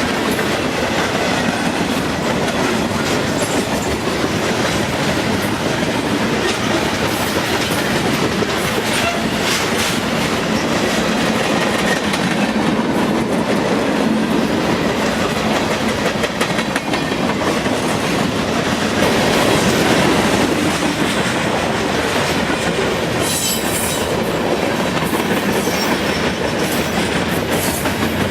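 A train rolling past, its wheels clattering steadily over the rails.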